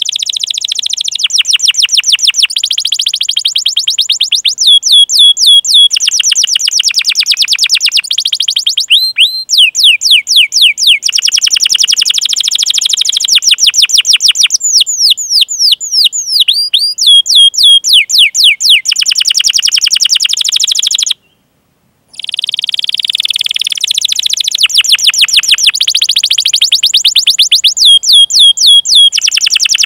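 Canary singing a long song of rapid trills and fast repeated chirping notes, phrase after phrase, each a few seconds long. It breaks off completely for under a second about two-thirds through.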